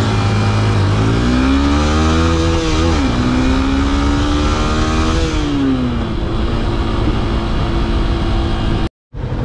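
Yamaha FZ S V3's 150cc single-cylinder engine pulling the bike up through the revs, dipping briefly at a gear change and holding. It then eases off to a steadier, lower note. The sound drops out for a moment near the end.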